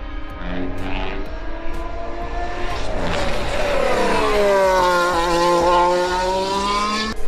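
A high-revving racing engine on track: its pitch drops as it slows, holds low, then climbs again as it accelerates, and it cuts off suddenly near the end.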